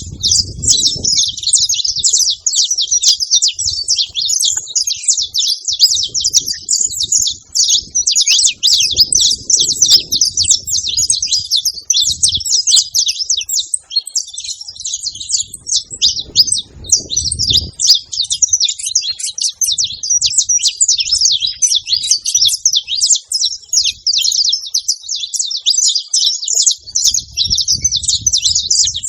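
Saffron finch singing: a fast, unbroken stream of high chirping notes, with occasional faint low rumbles underneath.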